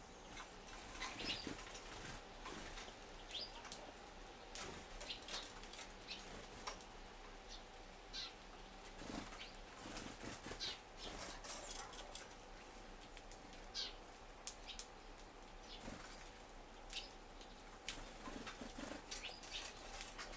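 Small birds at a wooden feeder tray: irregular wing flutters and light taps as they land, shuffle and peck at the food, with a few short high chirps.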